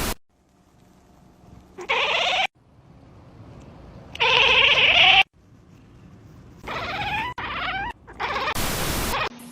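A cat meowing in four separate drawn-out calls, the second the loudest. Near the end comes a short burst of rushing noise.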